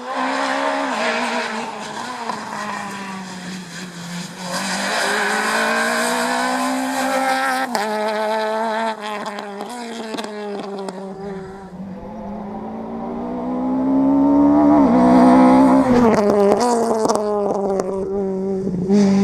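Rally car engine revving hard, its pitch climbing and dropping several times as it goes up and down the gears. The loudest stretch comes a little past the middle.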